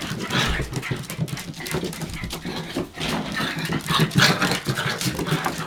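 Nine-week-old Hokkaido dog puppies moving about, their paws scrabbling and knocking in an irregular run of small scrapes and taps.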